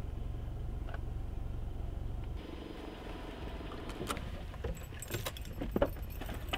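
Car engine idling with a low steady rumble; about four seconds in, a run of light clicks and rattles begins.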